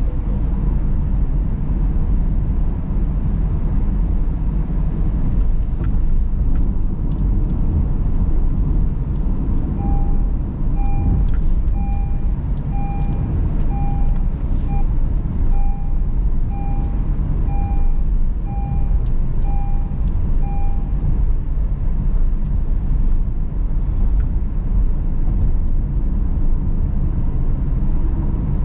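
Car driving, with the engine and tyres making a steady low rumble inside the cabin. About a third of the way in, a short electronic beep sounds about once a second for roughly ten seconds, about a dozen times, then stops.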